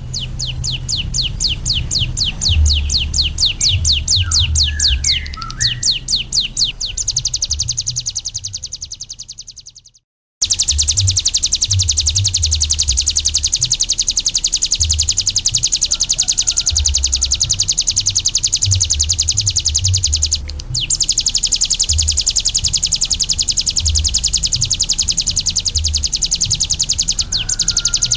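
Bar-winged prinia (ciblek gunung) singing a fast run of high repeated notes that fades away. After a brief total silence about ten seconds in, it continues as a denser, quicker high trill. A low rumble of background noise lies underneath.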